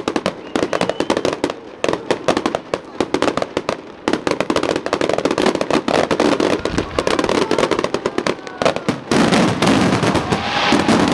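Fireworks display: rapid crackling and popping from ground-level fountains and small effects, many sharp cracks a second. About nine seconds in it turns denser and louder as a large burst goes off.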